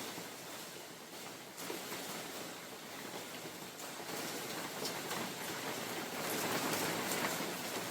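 Steady rain falling in a forest, a dense hiss with scattered drops ticking, and wind in the trees. The sound swells louder for a second or two near the end.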